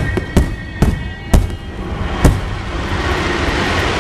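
Aerial firework shells bursting with sharp bangs, four in the first two and a half seconds, then a steady hiss.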